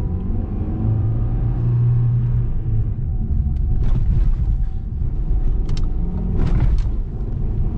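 Lada Vesta heard from inside the cabin: steady engine and road rumble as it drives over a speed bump, with a few soft knocks about halfway through and again near the end, and no loud suspension thud.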